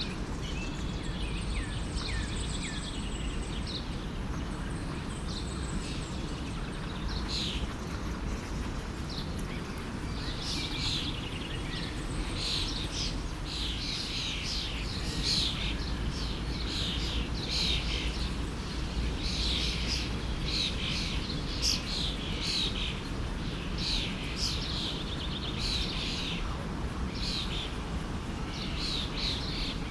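Songbirds chirping over the steady rush of a stream, the birdsong growing busier about a third of the way in.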